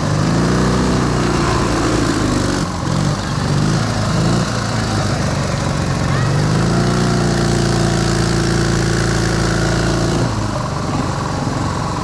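Motorcycle engine pulling away and running under throttle: the pitch rises and holds steady for a couple of seconds, eases off, then rises again and holds for about four seconds before dropping back near the end.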